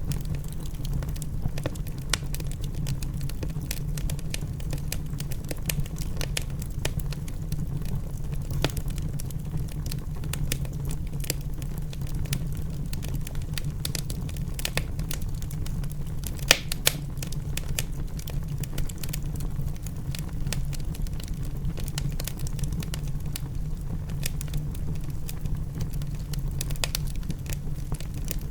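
Wood fire crackling in a fireplace: a dense stream of small sharp crackles, with a couple of louder pops about two-thirds of the way through, over a steady low rumble.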